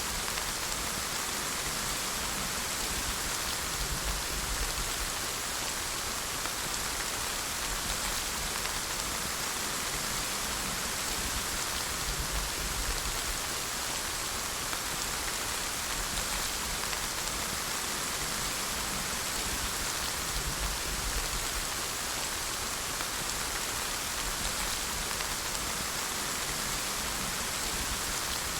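Steady rain falling, an even hiss of many drops with no let-up, and faint low rumbles now and then.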